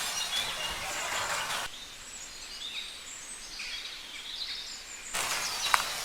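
Birds chirping in short calls over quiet outdoor ambience. On either side of this is a louder hiss with scattered sharp clicks.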